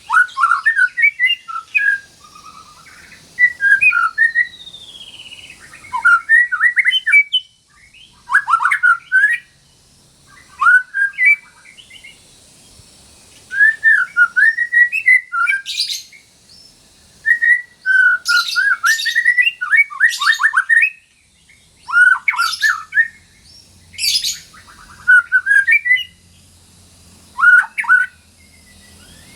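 White-rumped shama singing in full song: a series of short, varied, fast whistled and chattering phrases, each lasting a second or two, with brief pauses between them.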